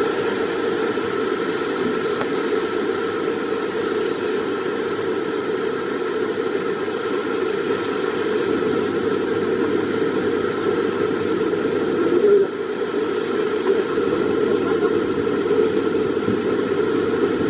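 Heavy rain falling steadily, an even rush of noise that briefly swells about twelve seconds in.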